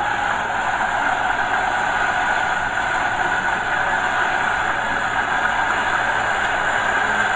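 Small Komatsu bulldozer's diesel engine running steadily while it works.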